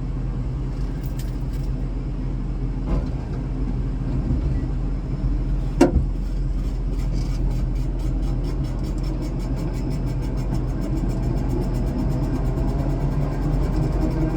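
Airport ramp vehicle engine running steadily with a low rumble. A single sharp clack about six seconds in, then a fast, even ticking that goes on to the end.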